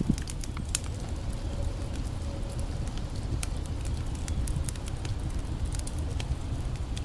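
Campfire crackling and popping with irregular sharp snaps over a steady low rush.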